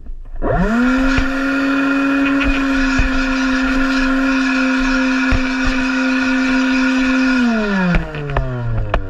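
Electric leaf blower with its nozzle held in a dog's mouth: the motor is switched on and spins up within half a second to a steady whine over rushing air. About seven and a half seconds in it is switched off, and the pitch falls as the motor winds down.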